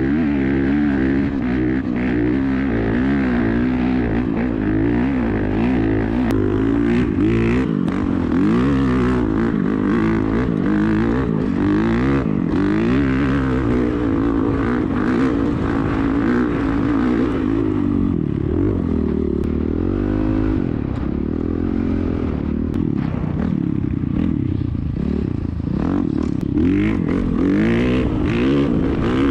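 Dirt bike engine being ridden, its revs rising and falling over and over with the throttle.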